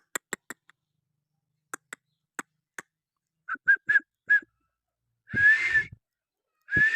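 A string of sharp clicks, then four short whistled notes and two longer, breathy whistles: a person whistling and clicking.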